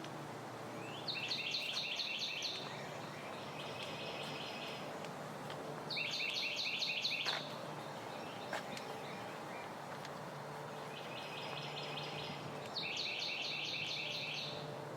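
A songbird singing short trilled phrases of rapid, quickly repeated high notes, five phrases in all, some louder and some fainter, over a steady low hum.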